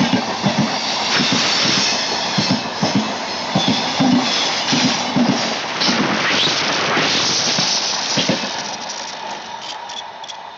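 Passenger train coaches running past, wheels knocking in uneven clusters over rail joints under a steady rushing noise. The sound fades over the last couple of seconds as the end of the train moves off.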